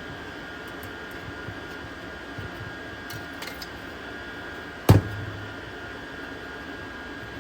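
A steady mechanical hum with a faint high whine held throughout, broken about five seconds in by a single sharp knock with a short low thud after it.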